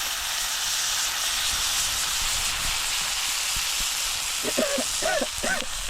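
A pan of fish frying in hot oil, hissing and sizzling steadily as water is added, throwing off steam.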